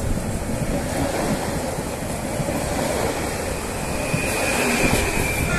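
A Pesa Dart electric multiple unit running past the platform with a steady rolling rumble of wheels on rail. About four seconds in, a thin high whine joins the rumble, and the sound grows slightly louder.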